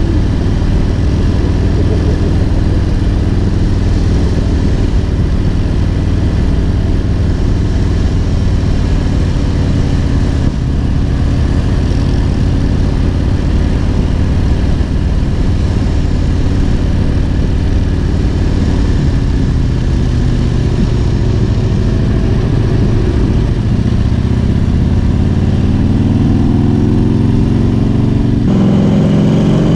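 Harley-Davidson Road King's Twin Cam 88 V-twin running at steady road speed, with wind rushing over the microphone. The engine note falls in the last third, then rises as the throttle opens near the end.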